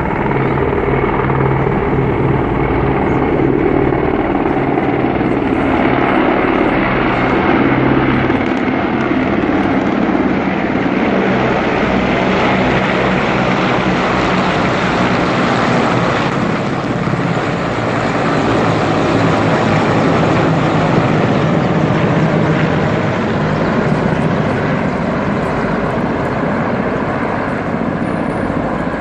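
Mil Mi-17 twin-turbine military helicopters flying past, a steady drone of rotor and turbine noise that swells and eases slightly without stopping.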